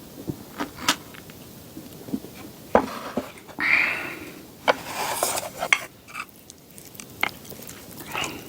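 Utensils clicking and scraping against dishes while seafood pajeon is being eaten: a scatter of sharp clicks, with two short scraping or rustling stretches near the middle.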